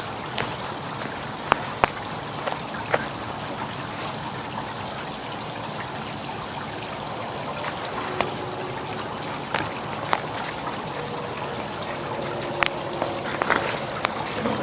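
Water from a garden hose running and trickling steadily over an overheated A/C compressor to cool it down, with a few sharp taps here and there.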